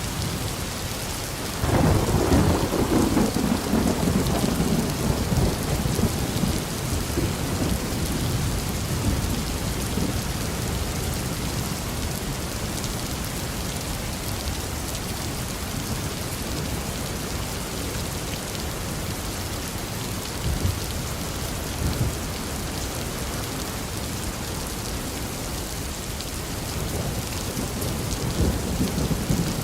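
Steady rain falling, with a thunderclap about two seconds in that rumbles away over the next several seconds. A couple of short low rumbles come later, and another roll of thunder builds near the end.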